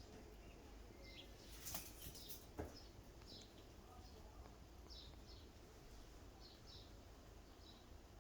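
Faint small birds chirping over and over in short, high calls. About two seconds in there is a brief rustle, followed by a sharp click.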